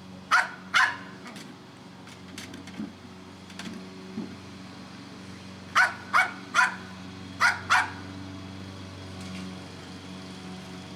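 Dog barking in short sharp barks at a toy stuck in a bin, trying to bark it out: two barks near the start, then five more in quick succession about six seconds in. A steady low hum runs underneath.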